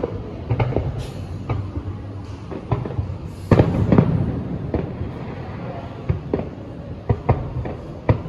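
Aerial fireworks going off in an irregular series of sharp bangs with smaller pops between them, the loudest bangs about three and a half to four seconds in.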